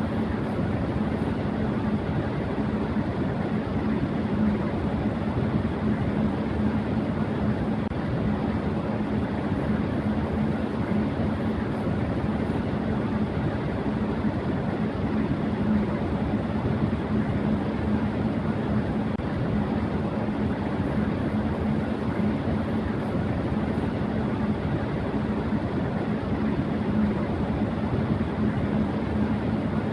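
Electric fan running at high speed: a steady rush of air with a constant low hum underneath.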